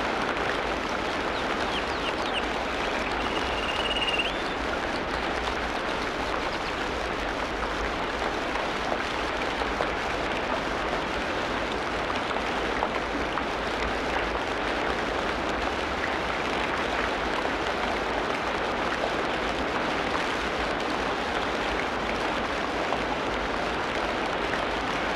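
Steady rainfall in a tropical rainforest, an even hiss and patter. A single bird gives a short high call about three seconds in.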